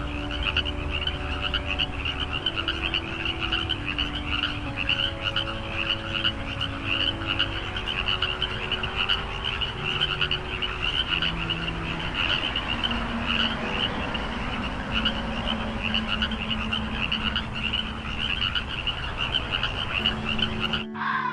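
A chorus of frogs croaking in a dense, rapid, unbroken stream of repeated calls, with faint low held notes underneath.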